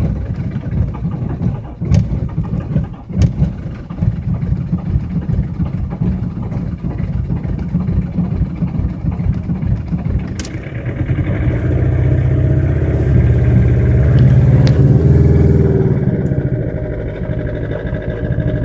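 Old car engine on a cold start, running unevenly with a few sharp clicks, then revved up about halfway through, held for several seconds and eased back. The cold engine, after standing two days, has to be coaxed with the throttle to keep running.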